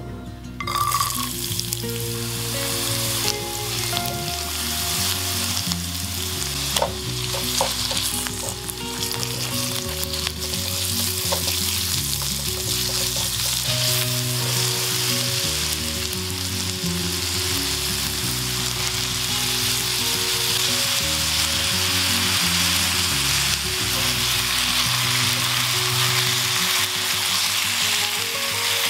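Minced meat and onion sizzling in hot oil in a nonstick wok, starting about half a second in when the food hits the oil, while being stirred with a silicone spatula. Soft background music plays underneath.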